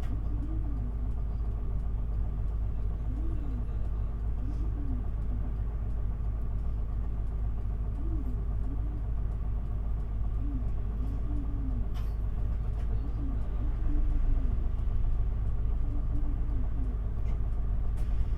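Interior of an Isuzu Erga city bus under way: a steady low engine and road rumble with a constant hum. Short rising-and-falling tones recur every second or two, and the sound gets a little louder near the end.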